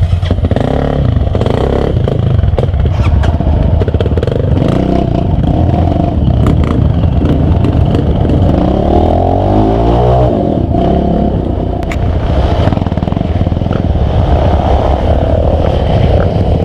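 Off-road motorcycle engine running on a muddy trail, its pitch shifting as the throttle changes, with scattered clattering knocks.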